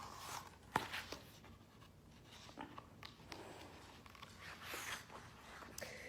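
Faint paper rustling and a few soft clicks as a picture book's pages are handled and turned.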